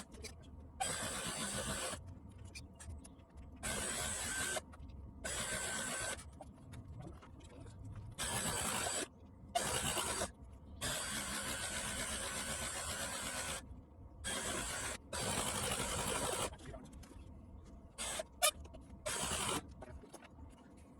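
Small electric fuel pump whirring in about ten on-off bursts, some brief and one nearly three seconds long, pumping glow fuel into a model plane's fuel tank.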